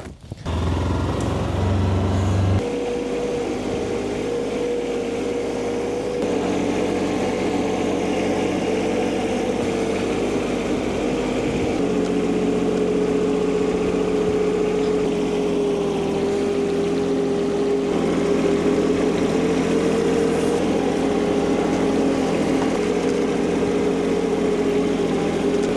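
An engine running steadily, its tone shifting a few times, about two and a half, six and twelve seconds in.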